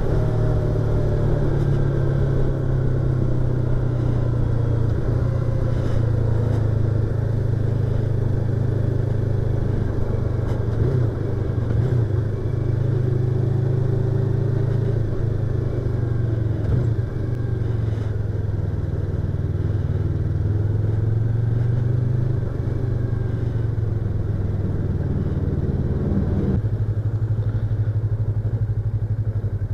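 Yamaha YZF-R25's parallel-twin engine and exhaust running steadily while riding, heard from inside the rider's helmet. The engine note shifts slightly about 26 seconds in.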